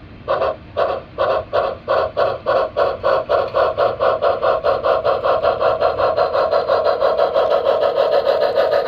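Sound-equipped model steam locomotive chuffing as it pulls away. The chuffs quicken steadily from about two a second to a fast, nearly continuous beat as it picks up speed.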